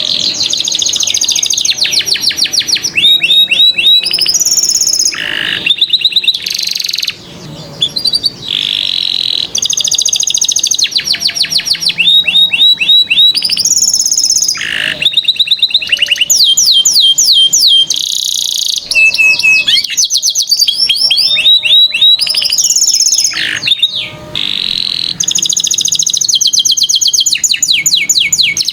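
Domestic canary singing a long, continuous song of rapid trills and rolls, switching between fast repeated notes every second or two.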